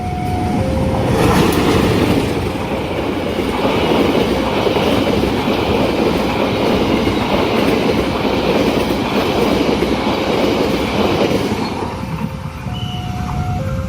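A train passing a level crossing at speed, its wheels clattering over the rails for about ten seconds. The crossing's electronic warning alarm alternates between two tones at the start and comes through again near the end as the train clears.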